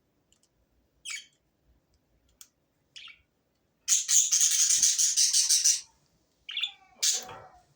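Budgerigars chirping: a few short chirps, then about two seconds of rapid warbling chatter, then louder calls near the end.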